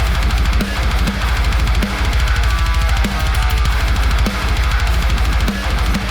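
Playback of a deathcore song section being written: programmed drums with rapid double-kick bass drum and snare hits over dense, heavy distorted guitars. It stops abruptly at the end.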